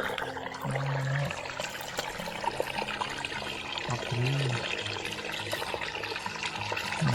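Running water trickling and pouring steadily, with faint low hums now and then.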